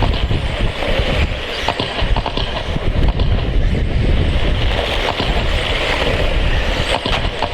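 Wind buffeting the microphone over electric 1/10 stadium trucks with 13.5-turn brushless motors racing on a dirt oval: a steady whir and tyre hiss, with a few short ticks.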